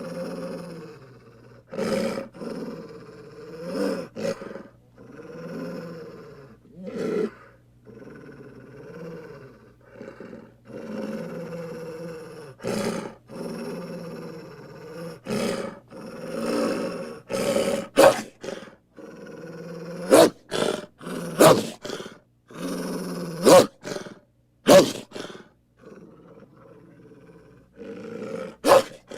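A series of growls and snarls as werewolf sound effects, one after another. In the second half they are broken by several short, sharp, louder bursts.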